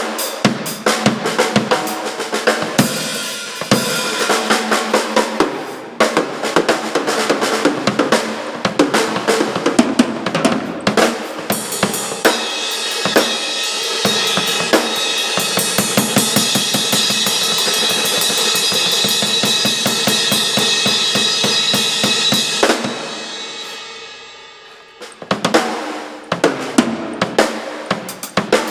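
Rock band rehearsing, with a loud drum kit to the fore: snare, bass drum and cymbals, with sustained pitched instruments underneath. Well past the middle a held, cymbal-heavy wash dies away for a couple of seconds, then the drums come back in.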